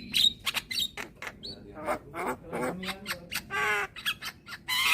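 Young Javan myna (jalak kebo) singing a busy run of sharp clicks and short rising whistles, broken by harsh rasping squawks, one just past halfway and a louder one near the end.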